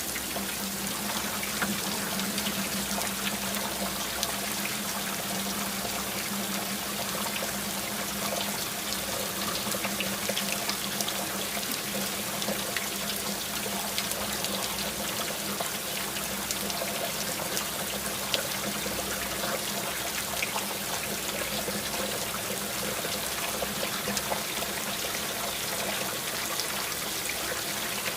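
Steady rain with many individual drops pattering and water trickling, under a faint steady low hum that sets in about half a second in.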